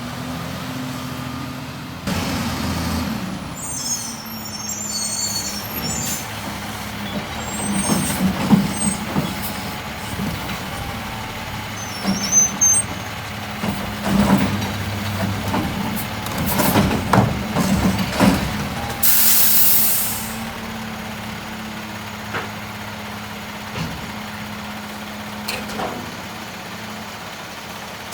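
Peterbilt 520 garbage truck's diesel engine running steadily, with irregular clanks and knocks through the middle. About two-thirds of the way in comes a loud air-brake hiss lasting about a second.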